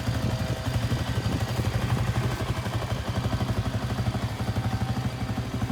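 ATV engine idling steadily with an even, rapid pulse and no revving.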